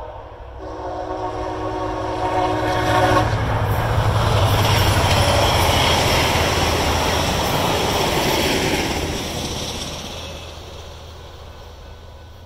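VIA Rail passenger train sounding its horn, a held chord with a short break near the start that stops about three seconds in. Then the train passes close with a loud rush of wheel and rail noise, rising to a peak and fading away near the end.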